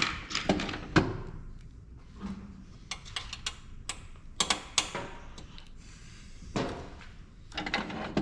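Irregular clicks, taps and knocks of hand tools and hard printer parts being handled and worked on during a teardown, with a short scrape about six and a half seconds in.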